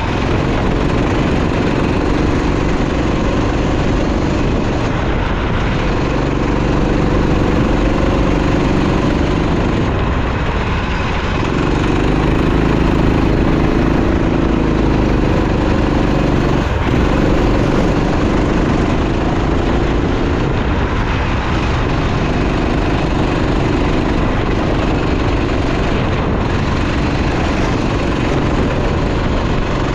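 Go-kart engine running hard, its note rising and falling with a brief dip about ten seconds in and again a few seconds later, over a constant loud rush of noise.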